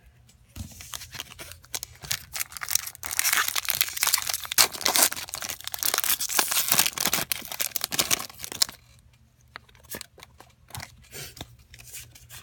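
Foil trading-card booster pack wrapper being torn open and crinkled: a dense crackling that stops about nine seconds in, followed by light, scattered rustles and clicks.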